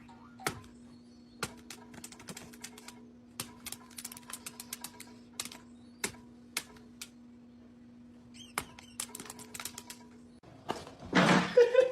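Irregular sharp clicks and taps over a steady low hum. Near the end the hum stops and a louder, noisier sound takes over.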